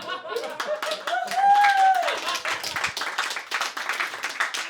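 Comedy-club audience applauding and laughing. One voice lets out a loud, held cheer about a second in.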